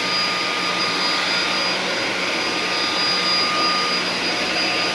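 Samsung VS20T7532T1 cordless stick vacuum running steadily on its maximum power setting while sucking up scattered dry cat food from a tiled floor: an even rush of air with a steady hum and high whine.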